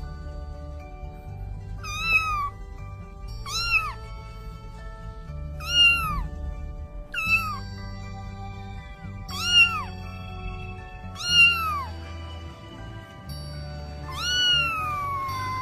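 Cat meowing, seven meows one to two seconds apart, each rising then falling in pitch, the last one longer and sliding down slowly. Background music with low bass notes plays underneath.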